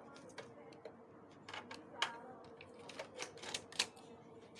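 Scattered small clicks and taps of hands working a ribbon cable out of a photocopier's document feeder, with two sharper clicks about two seconds and nearly four seconds in.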